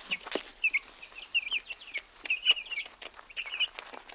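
Chickens calling with many short, high-pitched calls in quick succession, mixed with scattered clicks and scuffles.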